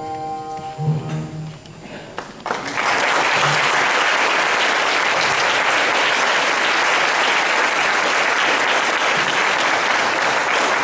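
Audience applauding, a steady clapping that breaks out about two and a half seconds in as the last notes of a song fade away.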